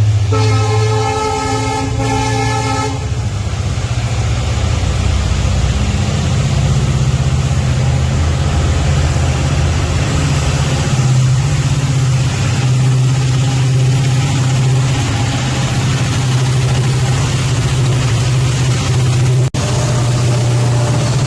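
Train horn sounding once for about three seconds, followed by the steady low rumble of a locomotive engine running, which drops out for an instant near the end.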